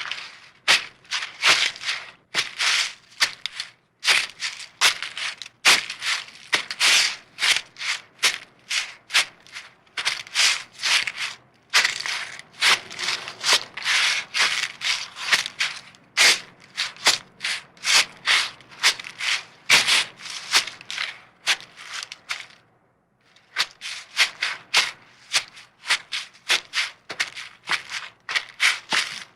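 Rapid, rough scratching or scraping strokes, about three to four a second, repeated over and over, with a short break about two-thirds of the way through before they resume.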